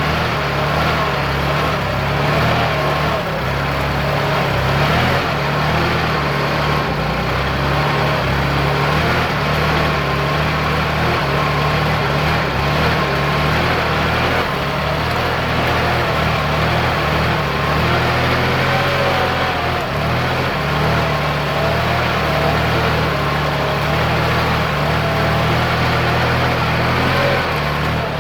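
Kubota farm tractor's diesel engine running steadily while plowing a wet, sticky rice paddy.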